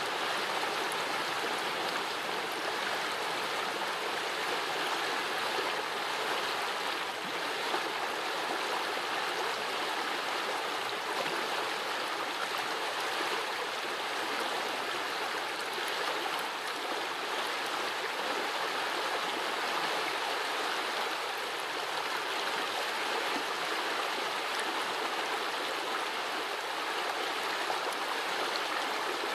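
A small forest brook running steadily, its water babbling and gurgling in an even rush.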